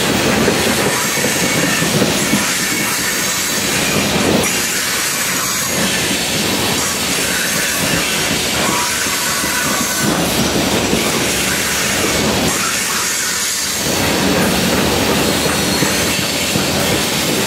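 Steel coal hopper cars of a freight train rolling past: a steady, loud noise of wheels running on the rails.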